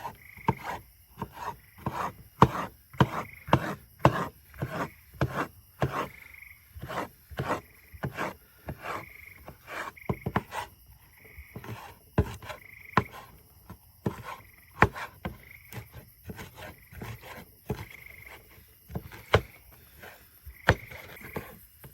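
A kitchen knife chopping fire-roasted bell peppers on a cutting board, in sharp irregular knocks about two a second. Behind it a short high trill repeats roughly once a second.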